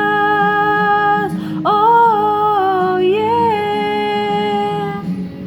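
A woman singing long, held notes over a steady backing track, with a short break for breath about one and a half seconds in. The last note fades out near the end.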